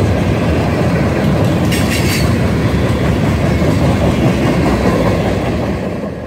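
Freight train's tank cars and hopper cars rolling past, a steady rumble of steel wheels on the rails. It fades as the last car goes by near the end.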